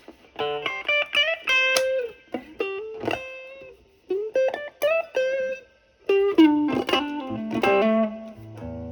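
Single-coil Stratocaster electric guitar playing a bluesy single-note lead through a Bluesbreaker-style overdrive pedal into a Marshall amp's clean channel. The guitar's gain is backed off to show how the overdrive cleans up. The phrases of picked notes are full of string bends and slides, with short pauses between them, and a held note rings near the end.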